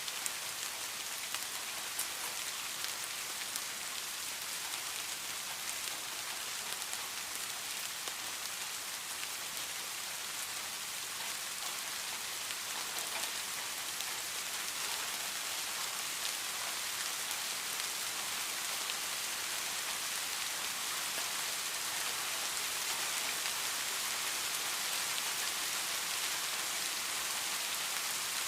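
Steady rain falling, an even hiss with scattered faint drop ticks, growing a little louder in the second half.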